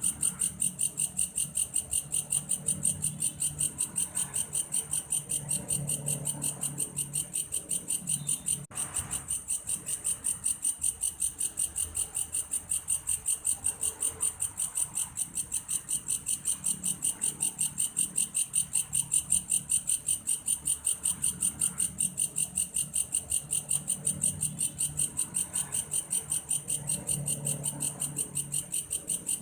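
Insect the uploader calls belalang kayu, singing a continuous, rapidly pulsed, high-pitched cricket-like chirr at an even rate, with a brief break about nine seconds in.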